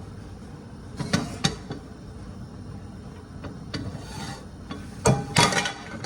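Metal pot and utensil clanking and scraping against each other, in two short bouts about a second in and about five seconds in, over a steady low background.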